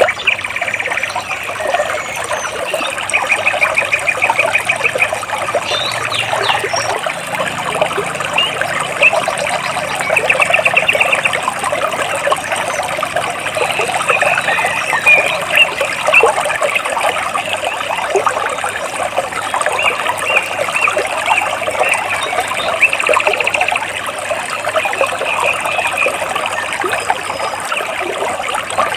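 Water flowing and trickling between rocks in a stream, with birds chirping over it; short, fast bird trills stand out several times.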